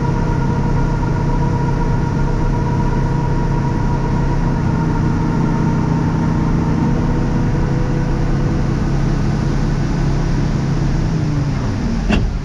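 Tractor engine running steadily, its pitch dropping about eleven seconds in, followed by a sharp click near the end.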